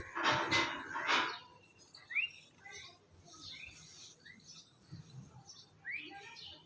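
Bird calls: a loud, noisy burst in the first second or so, then short rising chirps every couple of seconds.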